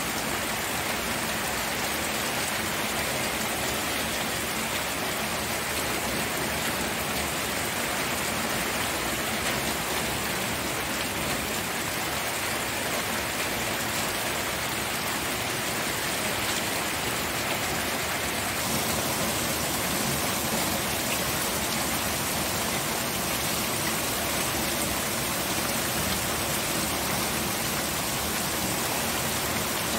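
Steady rainfall: a dense, even hiss of rain pattering on surfaces, with no breaks.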